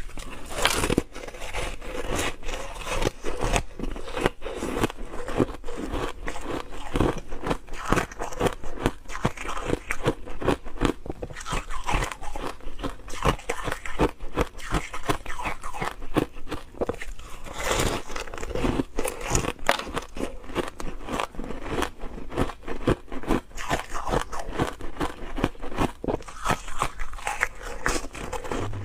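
Ice being bitten and chewed close to the microphone: a dense run of sharp crunches and crackles as the ice cracks between the teeth.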